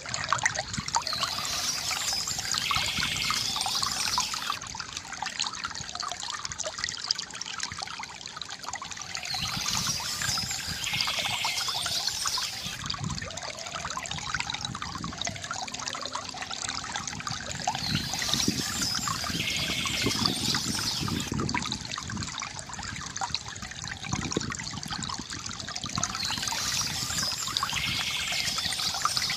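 Water from a bamboo fountain steadily trickling and gurgling, with short spells of bird chirping that come back about every eight to nine seconds.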